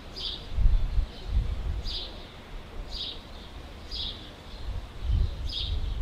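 A bird chirping, with short high chirps about once a second, over a low rumble that comes and goes.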